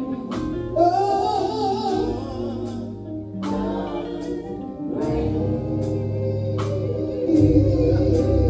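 Gospel group singing held, wavering notes in harmony over a band with bass and a steady drum beat.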